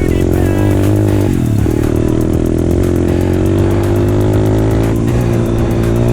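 Pit bike's single-cylinder engine running under steady throttle. About a second in it briefly drops in pitch, then picks back up and holds.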